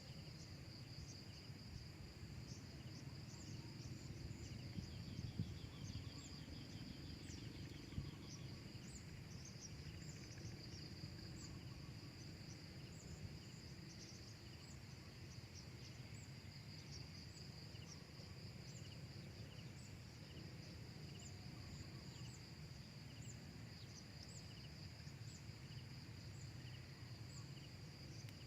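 Steady high insect chorus, a cricket-like trill, with a short high chirp repeating about once a second, over low background noise.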